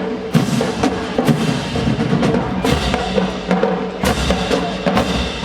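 HBCU-style marching band playing: sustained brass over a drumline with bass drums, with loud hits about every second or so.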